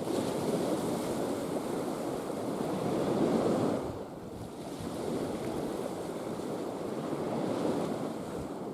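Mediterranean surf washing in, with wind on the microphone. The wash swells to its loudest a little over three seconds in, drops away suddenly, then builds again.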